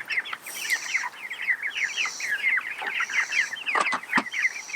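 A flock of Cornish cross broiler chicks peeping continuously: many short, falling peeps overlapping. There are a couple of sharp knocks a little before the end.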